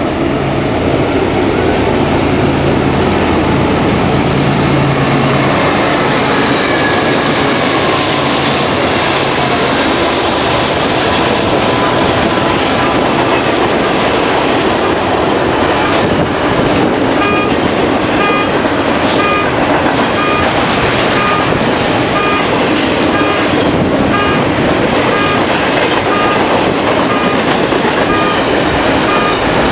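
BNSF diesel freight locomotive running as it approaches and passes, followed by the steady noise of a double-stack intermodal container train's wheels and cars rolling by on the rails. From about halfway through, a short high beep repeats about one and a half times a second over the train noise.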